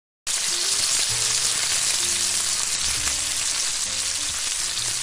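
Food sizzling loudly as it fries, a dense steady hiss, with a few low held notes underneath. It starts abruptly and begins to fade near the end.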